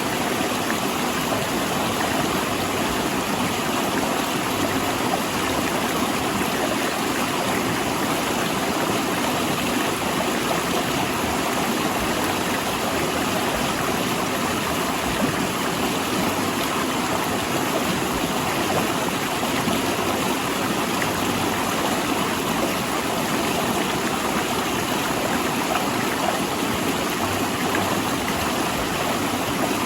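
A fast mountain river rushing over and between large rocks: a steady, even churning of water with no breaks.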